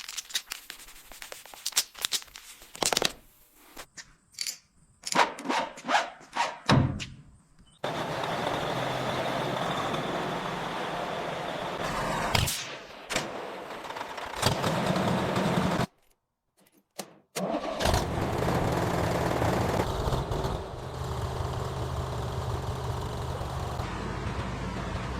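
Several clicks and knocks, then a 1964 John Deere tractor engine running steadily. The running breaks off for a moment about two-thirds of the way through and then resumes.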